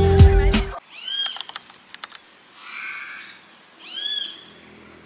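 Music with a heavy beat cuts off less than a second in. Then wild birds call in the rainforest: two bursts of quick arched chirps about three seconds apart, with a short hissing call between them.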